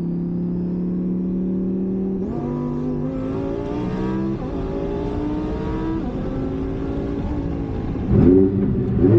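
Twin-turbo Lamborghini Huracán Performante's V10 heard from inside the cabin: a steady cruise, then the car accelerates, its pitch rising and dropping back at several quick gear shifts.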